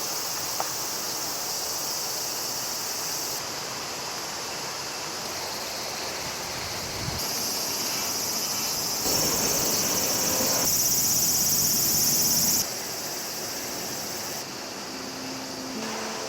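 Summer insects, crickets or katydids, chirring steadily and high in pitch, fast-pulsed in places. The sound jumps in level and character every two or three seconds.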